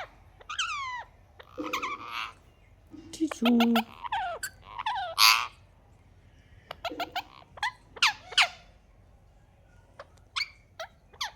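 A parrot giving a string of short squawks and whistle-like calls, many sliding down in pitch, in bursts with pauses of about a second between them. The loudest call comes a little past the middle, and a few seconds of quiet come before a last few short calls near the end.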